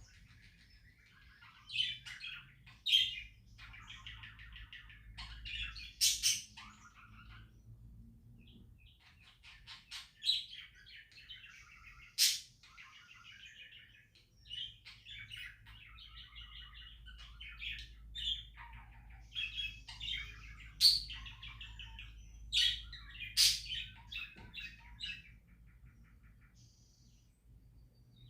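Pet budgerigars chirping and warbling in a busy, run-on chatter, broken by several sharp, loud chirps; the chatter dies away near the end.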